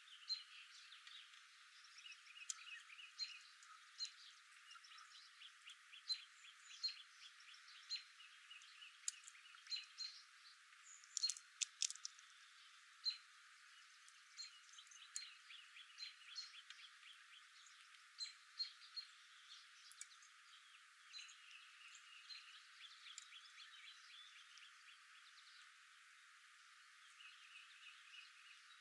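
Faint wild birdsong: small birds chirping and trilling over and over, with a cluster of louder, sharper chirps about halfway through.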